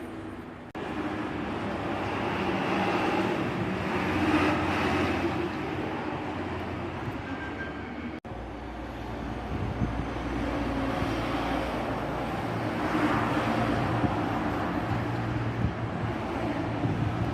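Engines of heavy road vehicles running and passing by, swelling louder twice as they go past, in three short clips spliced together with abrupt cuts.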